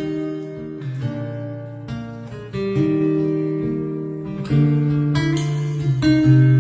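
Acoustic guitar music: plucked notes and chords over held bass notes, getting louder about four and a half seconds in.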